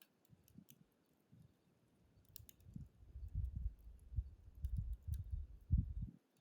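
A wood fire burning down in a fire pit: a few sparse, sharp crackles and pops. From about two seconds in, irregular low rumbling gusts are louder than the crackles.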